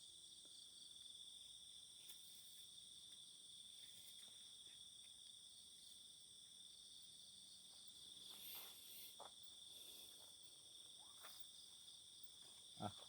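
Faint, steady chorus of night crickets trilling at several high pitches at once.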